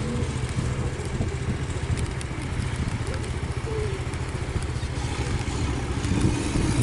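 Motor vehicle engines running steadily, a continuous low rumble.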